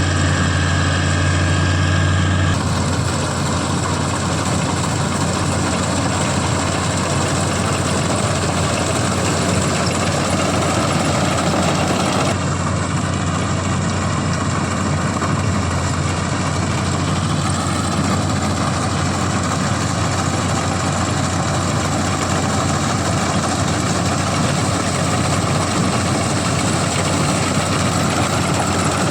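A CLAAS combine harvester's diesel engine running steadily, with machinery noise over it. The sound shifts abruptly twice, about two and a half and about twelve seconds in.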